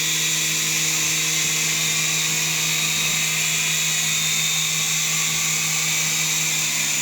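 Small electric RC helicopter flying, its motor and rotors giving a steady hum with a high whine that does not change.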